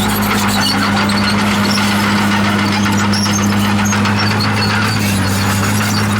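Komatsu D51PX crawler bulldozer's diesel engine running steadily under work, with scattered high squeaks and squeals from its tracks.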